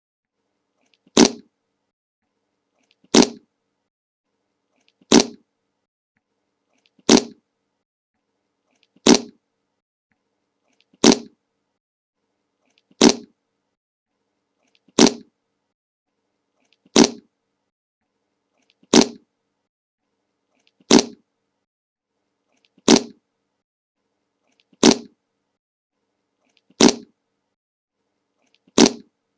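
The same short fart sound effect, the meme clip, repeated once every two seconds, about fifteen times, with silence between the repeats.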